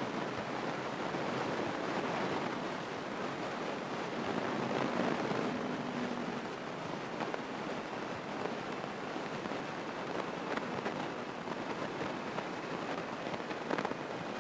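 Light airplane's piston engine running at low taxi power, heard inside the cockpit as a steady rushing noise. A short low hum comes in about five seconds in, and a couple of faint clicks come near the end.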